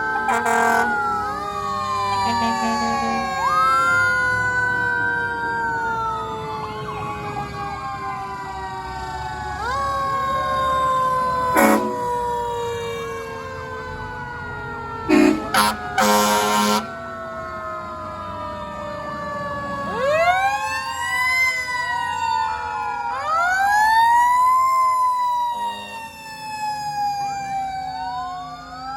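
Several fire truck sirens wailing at once, their pitches rising and falling slowly and overlapping. Loud horn blasts come about a second in, near the middle, and in a cluster a few seconds later. In the last third a siren winds up quickly again and again and falls back.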